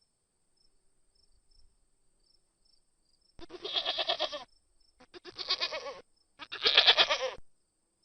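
Goat bleating three times, each call about a second long with a quavering pitch.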